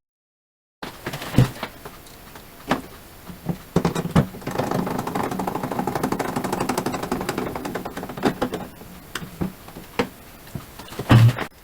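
Scattered clicks and knocks from hand work on small hard parts, with a stretch of continuous rattling in the middle and a heavier knock near the end. It begins after a brief moment of silence.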